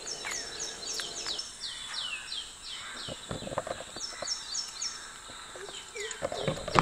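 A bird singing a run of quick, high chirps that each slide downward, about four a second, then a shorter run of the same about four seconds in. A faint steady insect hum lies beneath.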